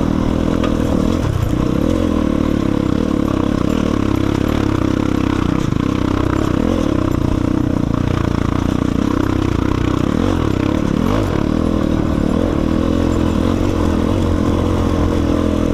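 Enduro motorcycle's single-cylinder engine running steadily under way in third gear.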